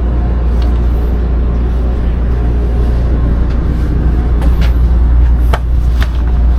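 Steady low rumbling hum inside a stationary passenger train car, with a few sharp clicks and knocks about four and a half, five and a half and six seconds in.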